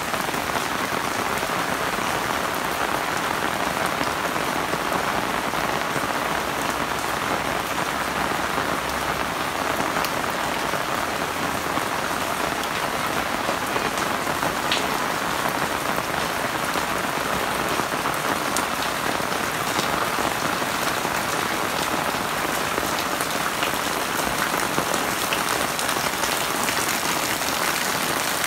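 Steady rain falling on a wet concrete yard and the leaves of potted plants, with the odd sharper drip ticking through.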